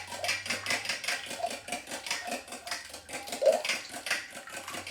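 Eggs being beaten in a bowl for an egg wash: a fast, steady clicking of the utensil against the bowl, with one louder clink about three and a half seconds in.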